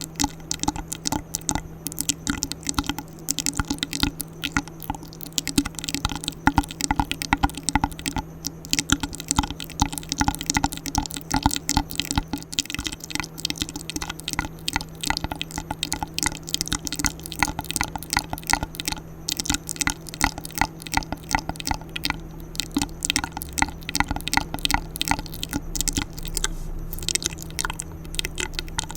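ASMR mouth sounds close to the microphone: quick, irregular wet clicks and smacks, many to the second, over a faint steady hum.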